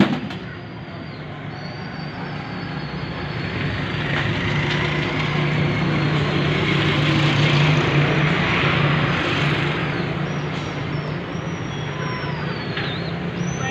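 A motor vehicle running, growing louder to about eight seconds in and then fading, as if it passes by. A sharp click comes right at the start.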